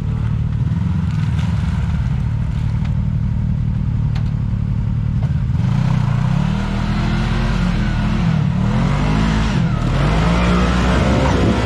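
Off-road vehicle engine running steadily under a low rumble with a few light clicks, then revving harder about halfway through, its pitch rising and falling again and again as it works up a rocky hill climb.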